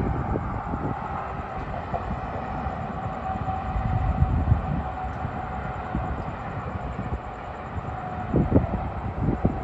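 Union Pacific freight train rolling past with its diesel locomotives powering up: a steady rumble with a thin, steady high tone over it, and wind gusting on the microphone.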